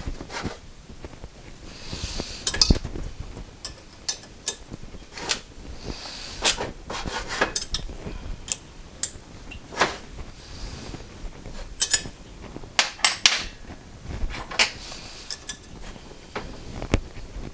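Metal clinks and knocks of wrenches working two nuts locked together on an engine stud, turning the stud to break it loose and back it out.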